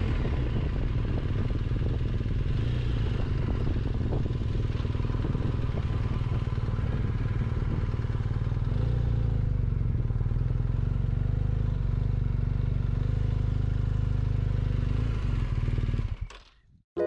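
Motorcycle engine running steadily, a dense low rumble, with a slight change in engine note about halfway through; it cuts off sharply near the end.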